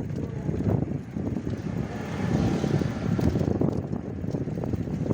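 Wind buffeting the microphone while riding, a rough, fluctuating low rumble with no clear engine tone.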